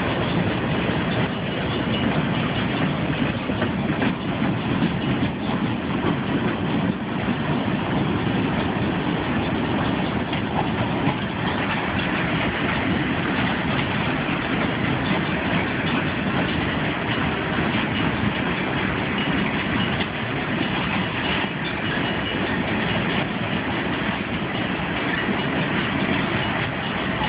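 A long freight train rolling past without a break, its wheels running steadily on the rails.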